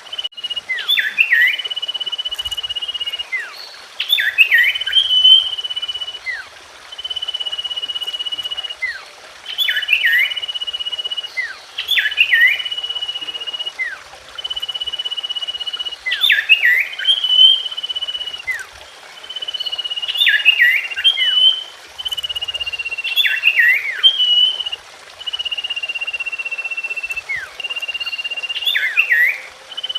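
Common iora (cipoh) singing: a long, level whistle of about a second and a half alternates with a quick cluster of sharp, falling notes, the phrase repeating about every two seconds.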